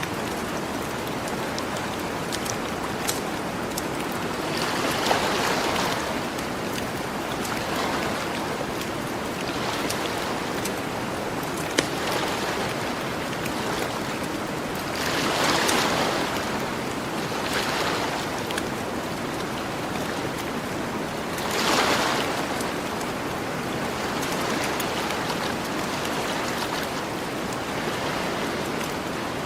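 Ocean waves washing onto a beach in a steady rush that swells every few seconds, with the occasional sharp crackle and pop of a campfire.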